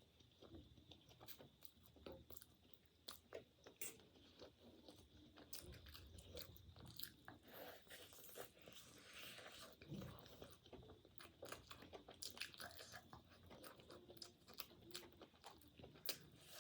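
Faint, close-up chewing and biting of food, with many small irregular crunches and mouth clicks.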